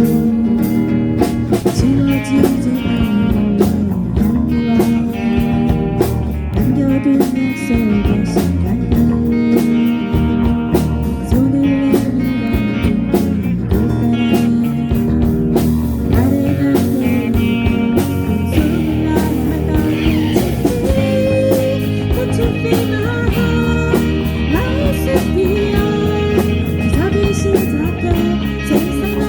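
Band music with no vocals: a guitar plays a lead line with bending, sliding notes over drums and bass.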